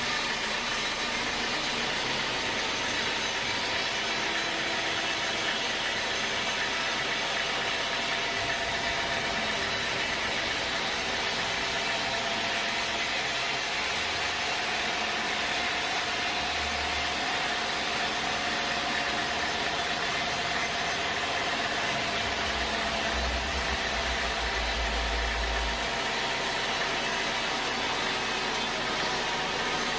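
Sawmill machinery running steadily: an engine-driven hum with constant pitch and level, and a few short low rumbles about halfway through and near two-thirds in.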